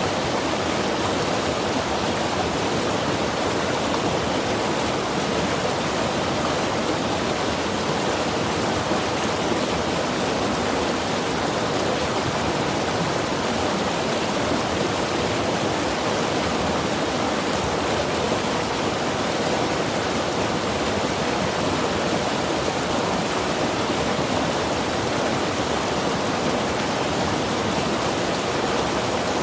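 Mountain river rushing steadily, an even, unbroken wash of water noise with no distinct splashes or changes.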